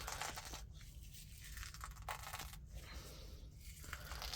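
Faint crackling and rustling as a raw egg is crushed by hand, shell and all, into pigeon feed.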